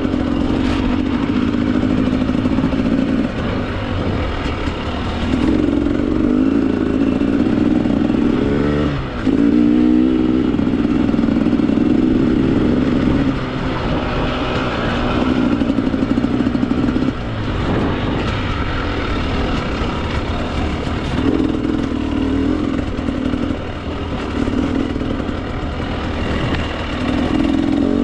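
Husqvarna TE 300 two-stroke dirt bike engine on the trail, the throttle opened and closed over and over so the engine note keeps rising and falling. There is a quick rev with rising pitch about nine seconds in, and brief backings-off of the throttle in between.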